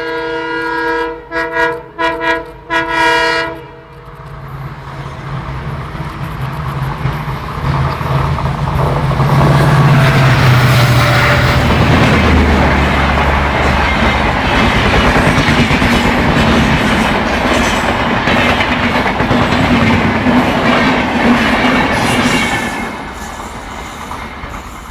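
WDP4D (EMD GT46PAC) diesel locomotive sounding its horn in several blasts that end a few seconds in. Its 16-cylinder two-stroke engine then grows louder as it approaches and passes, followed by the steady rumble and wheel clatter of LHB coaches going by at speed, fading near the end.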